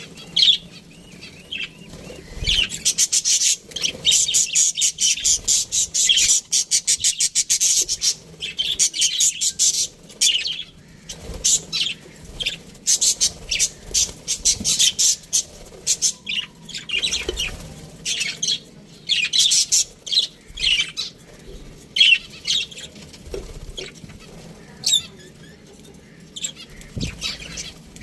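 A flock of budgerigars chirping and chattering, in fast runs of short, clicky notes that come and go.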